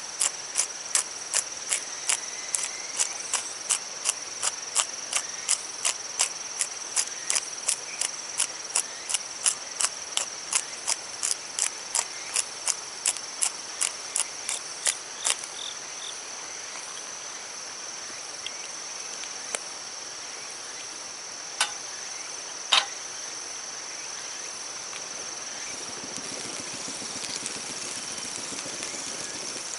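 Insects calling with a steady high-pitched drone, over a sharp click that repeats about twice a second for the first half and then stops, followed by a few scattered single clicks.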